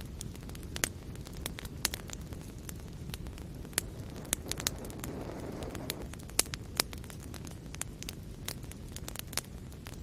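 Fire in a fireplace crackling: irregular sharp pops and snaps over a steady low rumble of the flames, with a soft hiss swelling briefly midway.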